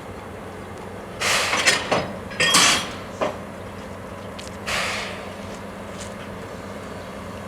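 Short bursts of hissing air from the train's brake and air system, with a sharp knock in between, over a steady low locomotive hum.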